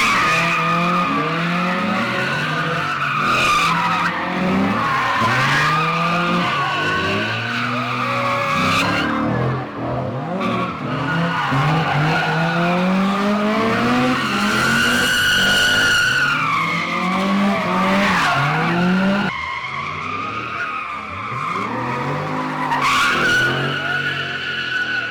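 High-powered car engines revving hard, pitch climbing and falling again and again, over tires squealing almost without a break as cars do burnouts and donuts. About three-quarters of the way through, the sound eases somewhat.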